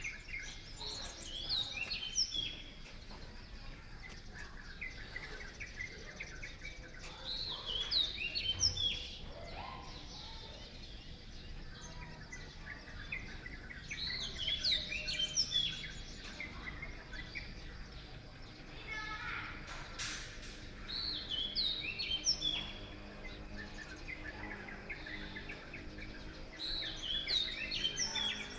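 A songbird singing a short burst of quick chirping notes about every six to seven seconds, with fainter bird chirps in between, over a steady low background noise.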